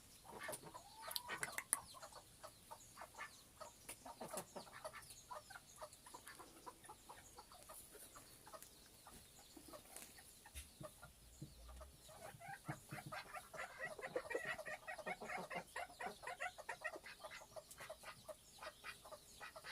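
Cochin chickens clucking in a steady run of short notes, busiest in a rapid stretch a little past the middle.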